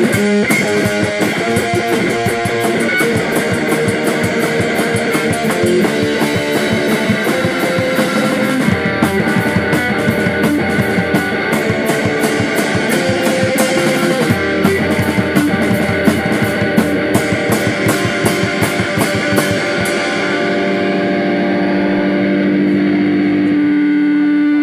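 Live rock band playing an instrumental passage: guitar over bass and drums, with fast, steady cymbal strokes. About twenty seconds in the drums stop and long held notes ring on.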